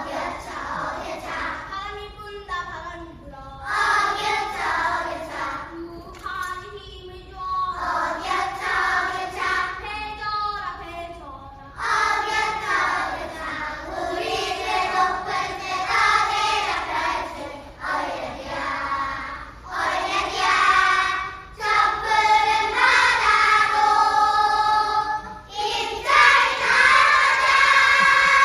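Children's choir singing in phrases of a few seconds each with short breaks between them, ending on a long held chord.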